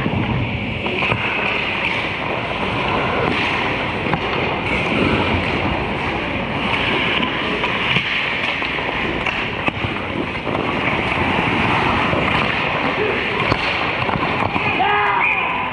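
Hockey game in play: a steady noisy wash of rink sound with scattered faint clicks, and a short call near the end.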